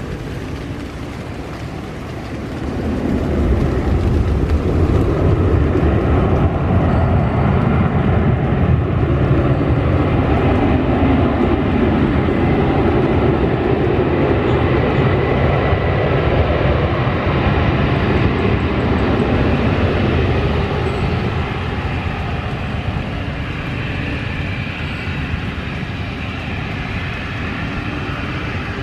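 Jet airliner engines, a loud steady rush that builds about three seconds in and eases somewhat after about twenty seconds.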